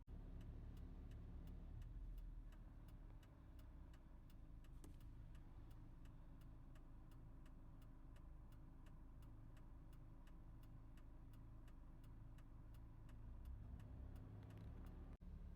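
Car indicator relay clicking at an even pace, about two to three clicks a second, over the low hum of the car's cabin.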